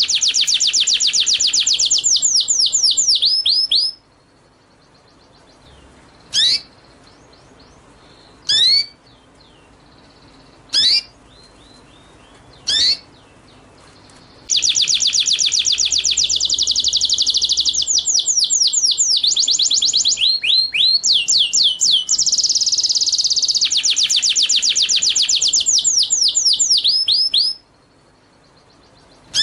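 Small songbird singing: long, high, rapid trills of fast-repeated notes that slow into separate sweeping notes at their ends. Between the first and second trill come four single sharp notes about two seconds apart, and the last two trills follow each other closely.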